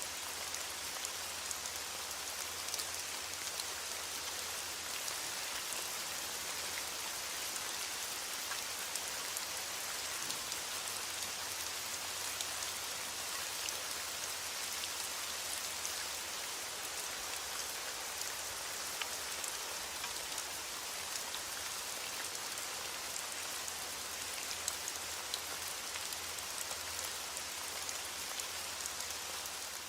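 Steady rain, with many small drops ticking on a surface. The patter stays even throughout.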